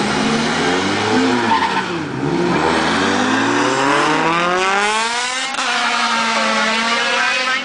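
Drag-race engines of a B16 turbocharged Honda Civic and a ProCharger-supercharged Cobra: pitch rising and falling for the first couple of seconds, then a launch with the pitch climbing steadily for about three seconds under full throttle, dropping, then holding a steady tone down the strip.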